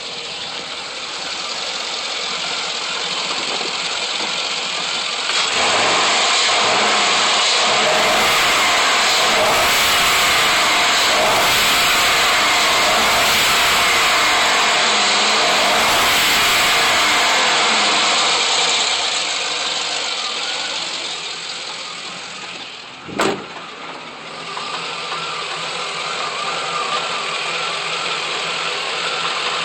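Chevrolet LY6 6.0-litre V8 running: it idles, gets louder and holds there from about five to eighteen seconds in, then drops back to a steady idle. A single sharp knock comes about two thirds of the way through.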